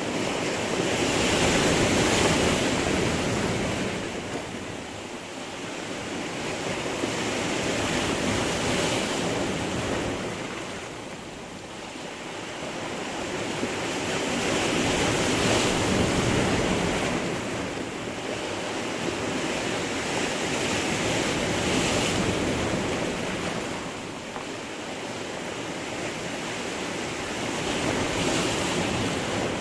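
Sea waves breaking against rocks: the surf swells and falls away about every six to seven seconds, five times in a row, with a steady wash between.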